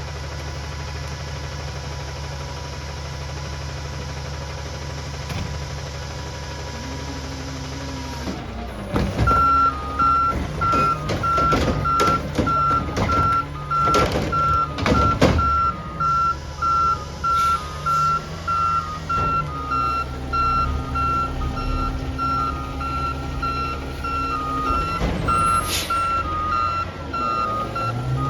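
Garbage truck's diesel engine idling steadily, then from about nine seconds in its reversing alarm beeps at a steady pace as the truck backs up. Loud knocks and clatter come in a run just after the beeping starts, and a short hiss comes near the end.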